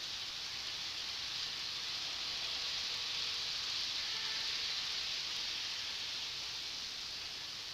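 Model Shinkansen train running on its track, a steady high hiss of wheels and motor that swells as it passes and fades toward the end.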